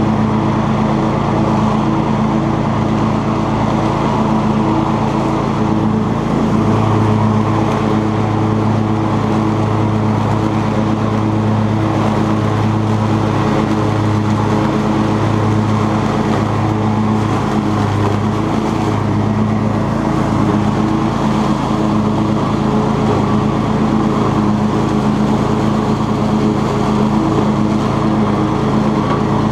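Cub Cadet XT2 riding lawn tractor running steadily while mowing, its engine and 42-inch deck giving a constant even drone.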